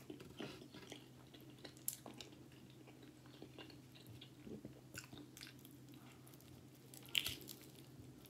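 Close-up chewing and biting of a homemade tortilla-crust pizza slice: soft wet chewing with scattered small crunches and mouth clicks, and one louder crunchy bite near the end.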